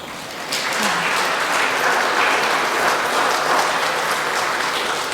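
Audience applauding, many people clapping at once, the clapping swelling about half a second in and easing near the end.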